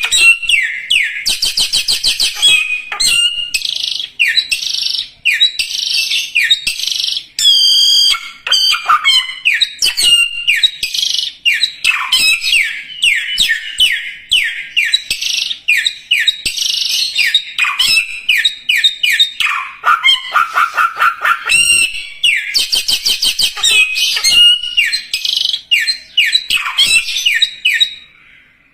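A songbird singing vigorously and almost without pause: a long run of quick, downward-sweeping whistled notes and rapid trills, fading out just before the end.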